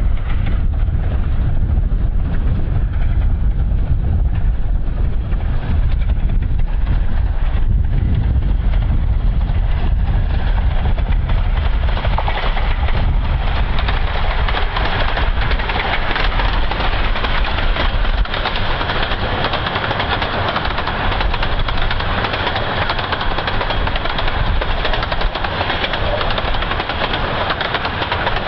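A 15-inch-gauge miniature railway train running, its noise building about twelve seconds in, with wind rumbling on the microphone through the first half.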